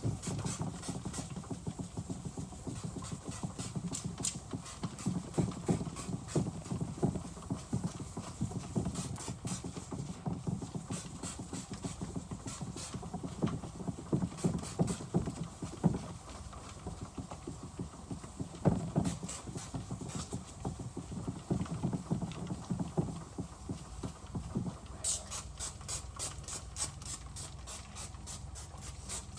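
Wet 1000-grit sandpaper rubbed in circles on an oxidized plastic headlight lens, a rhythmic scrubbing of uneven strokes. Near the end the scrubbing gives way to a fast, even, light ticking.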